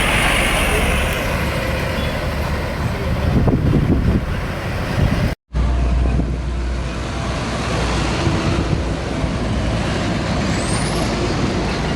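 Road traffic with heavy trucks going past: engines running and tyre noise, swelling as one passes close, with a brief dropout about halfway through.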